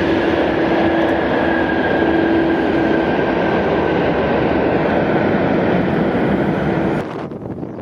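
Jet airliner engines running loud and steady, with a high whine slowly falling in pitch. About seven seconds in the engine sound cuts off abruptly and wind gusts buffet the microphone.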